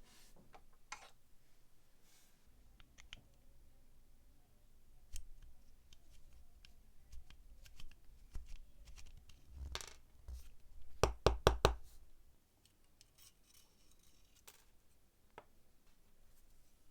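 Small metal parts and tools handled on a bench: scattered clicks and scrapes, with a quick run of about five sharp knocks about eleven seconds in.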